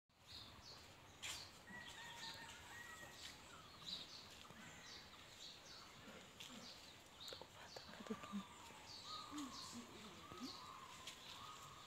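Faint outdoor garden ambience with small birds chirping again and again, short high calls over a light background hiss, and a wavering whistled call in the second half.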